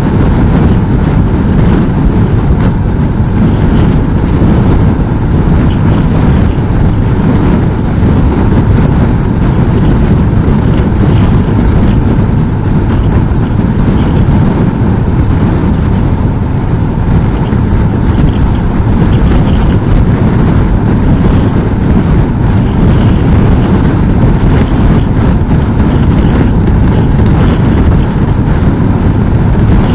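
Steady rush of wind on the microphone over the running of a Honda NC750S motorcycle's parallel-twin engine and its road noise, cruising at an even speed in strong wind.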